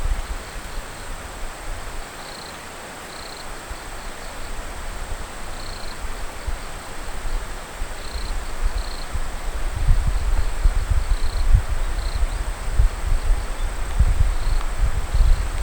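Wind gusting on the microphone, loudest in the second half, with short, faint, high chirps of a small bird repeating at irregular intervals.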